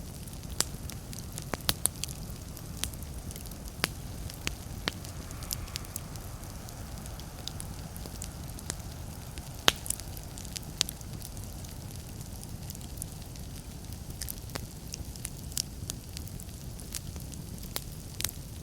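Wood fire in a fireplace crackling: irregular sharp pops and snaps over a steady low rumble, the loudest snap about ten seconds in.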